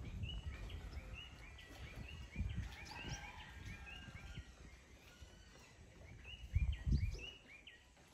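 Small birds chirping in a long run of short, quick notes, with a couple of low thumps about two and a half and seven seconds in.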